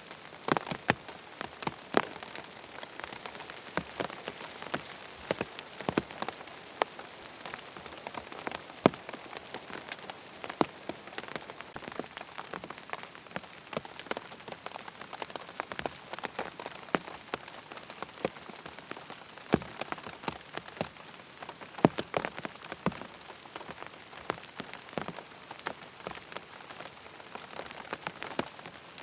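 Steady rain falling on a surface, with frequent sharp, irregular drop hits standing out over the even wash.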